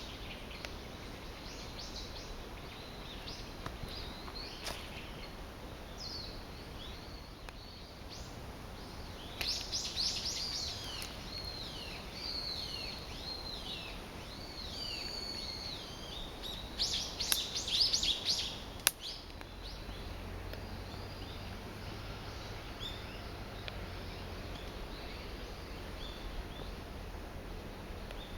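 Small birds chirping and trilling in quick high notes over a steady outdoor background hiss, busiest about a third of the way in and again about two-thirds in. One sharp click comes just after the second flurry.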